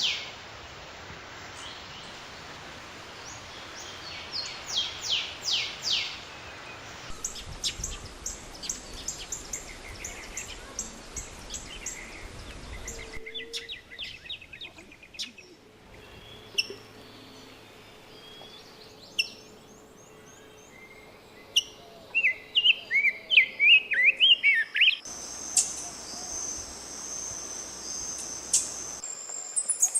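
Wild birds calling and singing, several different species in turn, with abrupt changes between short recordings. First comes a repeated series of sharp downslurred notes, then rapid chip notes, then a warbled song, and near the end a high thin trill.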